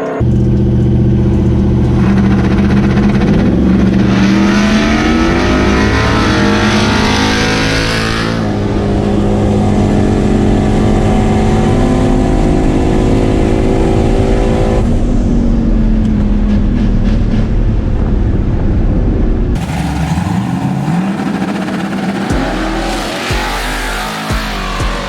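Street drag cars accelerating hard, engines at full throttle with the pitch climbing and shifting through gear changes; the sound changes abruptly a few times.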